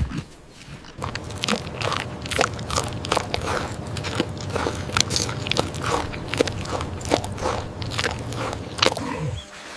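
Crisp biting and chewing, with irregular sharp crunches about two or three a second over a low rumble.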